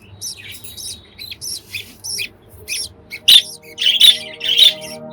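Budgies chirping, a quick run of short high calls that grow louder about three seconds in. Background music comes in under them near the end.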